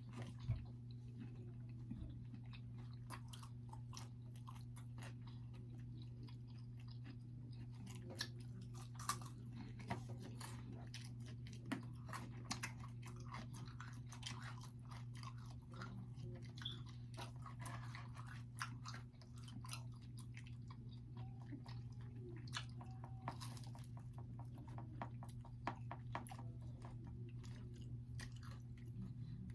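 Close-up chewing and biting of pizza, with many short crunches and wet mouth clicks at an uneven pace. A steady low hum runs underneath.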